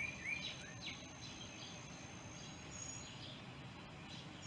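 Small birds chirping outdoors over a steady background hiss, with several quick chirps in the first second or so and a thin, high, steady note held for about three seconds.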